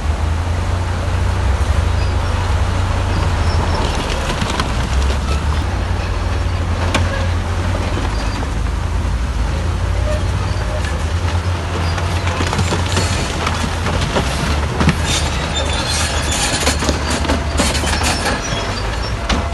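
Crawler bulldozer's diesel engine running steadily under load, with its steel tracks clanking and squealing, busiest in the second half.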